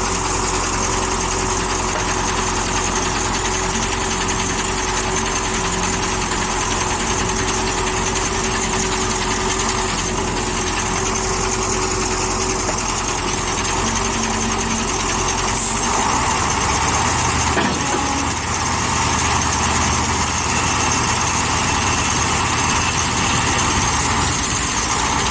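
Heavy truck engine running steadily, with a shift in its low rumble about two-thirds of the way through.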